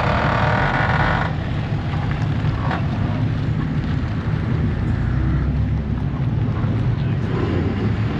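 A vehicle engine running steadily with a low rumble, with a brief hiss that stops about a second in.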